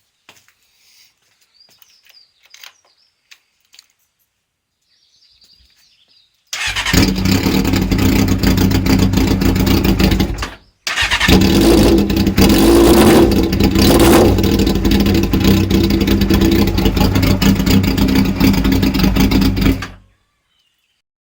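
Honda CBR600F2's inline-four engine running loud and being revved, the revs rising and falling. It starts suddenly about six seconds in, drops out for a moment near the middle, and stops suddenly near the end. Faint bird chirps come before it.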